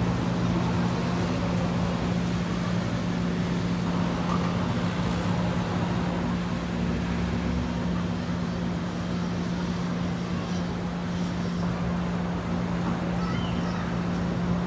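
A motor engine running steadily, a constant low hum with road or water noise beneath it.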